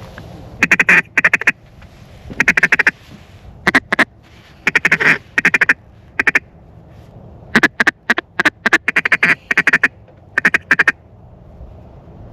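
A mallard-style duck call blown in about nine quick bursts of short, evenly spaced quacks, the usual calling to draw in approaching ducks.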